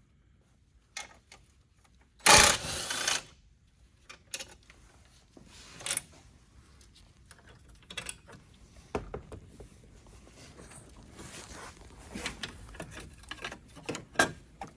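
Mechanical clicks, knocks and rattles of tools and parts being worked on during the repair, with one loud, noisy burst lasting about a second, a little over two seconds in.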